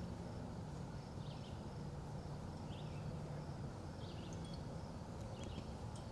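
Small songbird chirping in short phrases about once a second, over a steady low background rumble.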